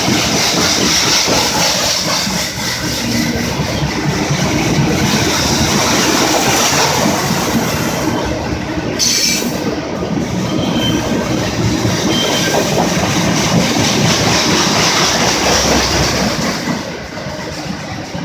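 Rail cars of a freight work train rolling past, wheels clattering over the track, with a brief high wheel squeal about halfway through. The noise drops off shortly before the end as the last cars go by.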